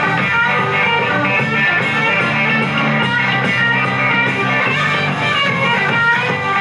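Live rock band playing an instrumental break, with an electric guitar carrying the lead over the band.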